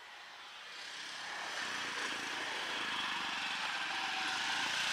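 Diesel locomotive at the head of a fully loaded freight train approaching, its engine and wheels making a steady noise that grows steadily louder.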